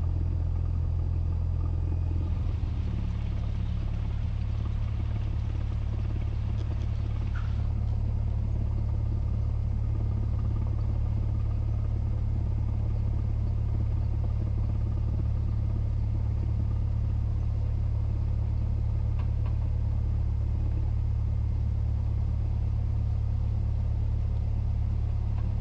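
Cessna 172S's four-cylinder Lycoming engine running at low power, a steady low drone heard through the cockpit audio feed. Its tone shifts slightly about two seconds in.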